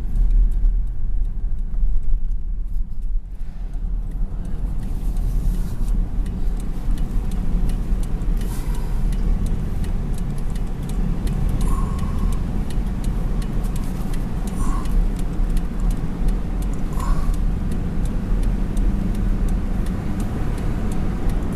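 Car on the move: a steady low rumble of engine and road noise, with a few faint short high notes in the second half.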